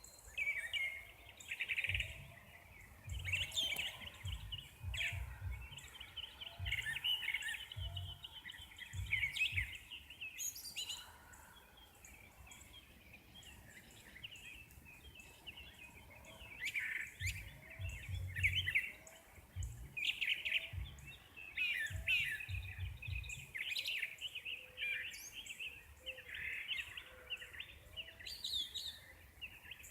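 Several birds singing and chirping together in a sunrise chorus, with a faint short call repeating about once a second under the song. Irregular low rumbles come and go, mostly in the first third and again past the middle.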